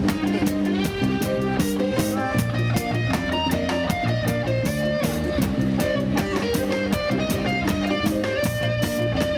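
Live roots reggae band playing an instrumental passage, guitar leading over bass and drums, with no singing.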